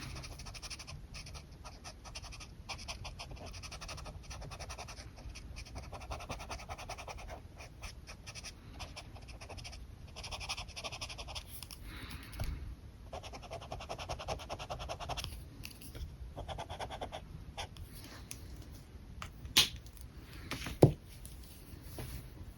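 Alcohol marker strokes scratching across paper in repeated passes of a second or two each, with two sharp clicks near the end.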